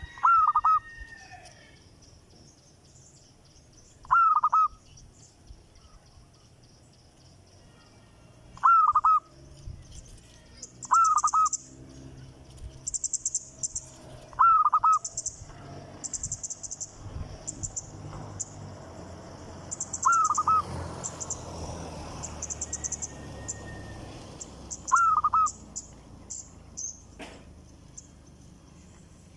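A bird giving a short, loud call seven times, a few seconds apart. From about ten seconds in, quicker, fainter high chirping runs between the calls.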